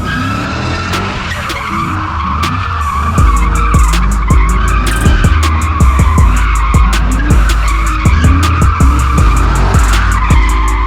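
Car tyres screeching continuously in a burnout or donut, a high wavering squeal, with a heavy low rumble coming in about three seconds in.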